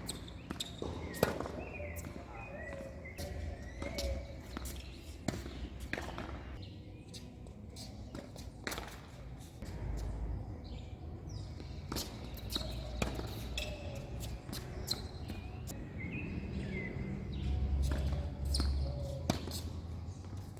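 Tennis ball knocks, racket strikes and bounces on the court, coming at irregular intervals, the sharpest about a second in. Birds chirp in the background.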